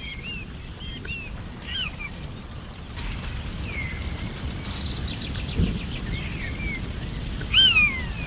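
Birds calling in forest: short, downward-sliding calls repeat several times, the loudest near the end, with a rapid trill about midway. Underneath runs a steady low rumble, with a brief dull thump a little past halfway.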